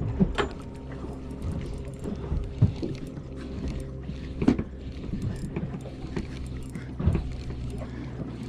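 A boat's engine idling with a steady low hum, with a few sharp knocks on the boat.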